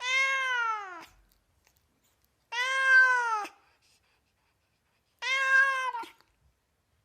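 A domestic cat meowing three times, each meow about a second long, rising slightly and then falling in pitch at the end, with short silent gaps between them.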